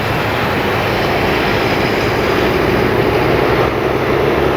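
Electric RC airplane (E-flite Piper Cherokee 1.3 m) flying past at speed, its brushless motor and propeller droning under a steady rushing noise that swells slightly at first.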